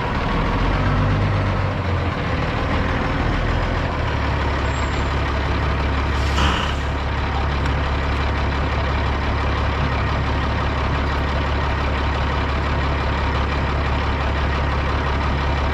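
Semi truck's diesel engine running steadily as the truck drives, its note shifting about four seconds in. A brief hiss about six seconds in.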